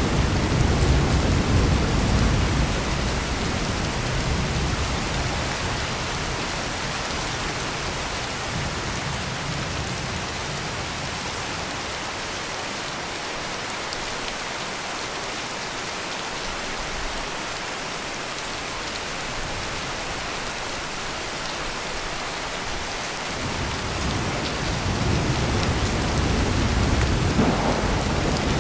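Heavy rain pouring steadily, with rolling thunder. A rumble fades out over the first few seconds, and another builds up near the end.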